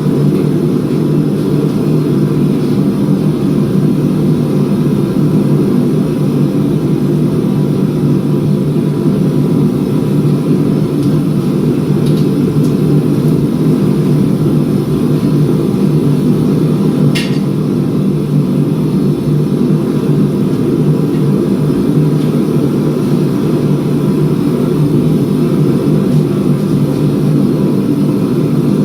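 A steady, low machine drone. A single short click comes about 17 seconds in.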